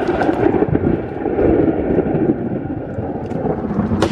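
Thunder rumbling steadily through heavy rain, with a sharp crack near the end.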